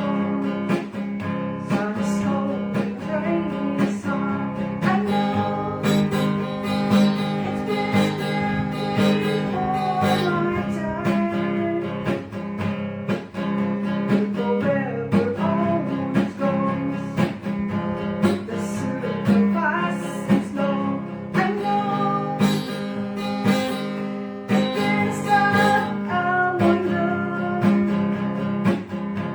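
Acoustic guitar strummed in a steady rhythm, with a melody line over it.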